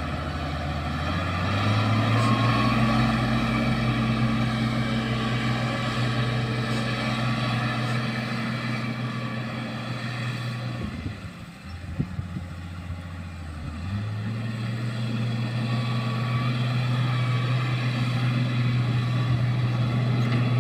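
Motor grader's diesel engine running steadily, its revs rising a couple of seconds in. Midway the revs drop for a few seconds, with a few short knocks, then pick up again.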